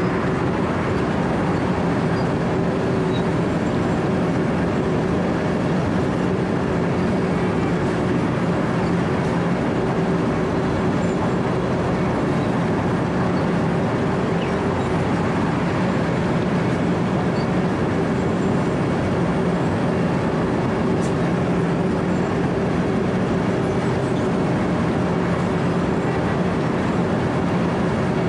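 Cold milling machine cutting asphalt: the diesel engine runs under steady load while the cutting drum grinds through the pavement, giving an unbroken, dense grinding rush over a constant engine hum.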